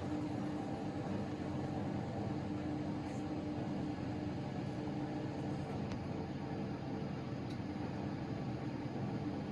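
Miele Novotronic W913 washing machine running its drain-and-spin after the second rinse, the drum spinning with a steady whirring hum.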